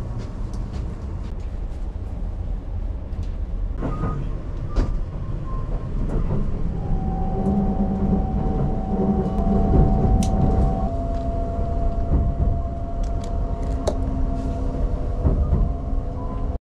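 Cabin noise inside a moving Kintetsu Shimaliner limited-express train: a steady low rumble of wheels on rails, with scattered clicks. A steady whine joins about seven seconds in.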